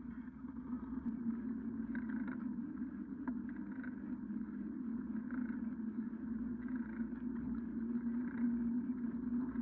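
Bicycle on the move: a steady low hum with rumbling underneath, from the tyres rolling and wind on the microphone.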